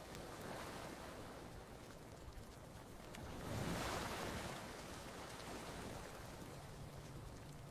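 Ocean waves washing onto a beach, one wave swelling up and breaking about halfway through. Faint scattered crackles of a campfire can be heard under the surf.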